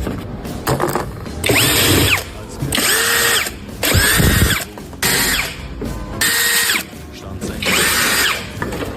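Handheld power tool run in about six short trigger pulls, each motor whine rising, holding and winding back down.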